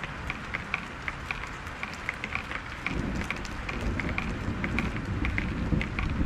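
Heavy rain falling in a thunderstorm, with drops pattering close by several times a second. A low rumble comes in about three seconds in and carries on.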